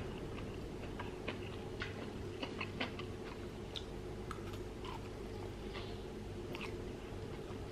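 A person chewing food, with small mouth clicks coming at irregular moments, over a steady low hum.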